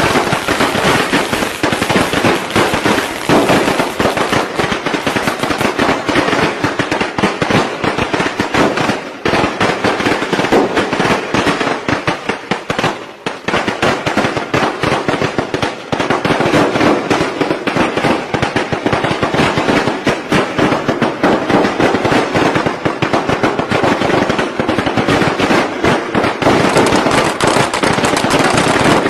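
Strings of traditional Vietnamese Tet firecrackers going off in a dense, unbroken crackle of rapid bangs, easing for a moment about halfway through before carrying on as thickly as before.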